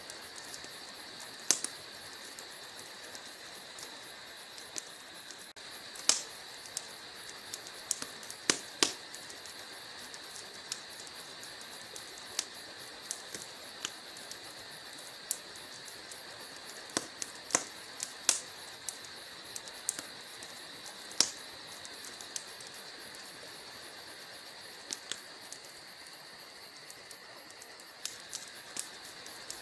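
Log fire burning in a fireplace, crackling with many small sharp pops and snaps over a steady hiss, and a few louder pops scattered through.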